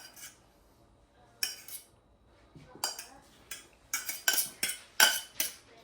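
A serving utensil clinking and scraping against plates and a pan as peas are spooned out. A couple of single clinks come first, then a quickening run of clinks from about three seconds in.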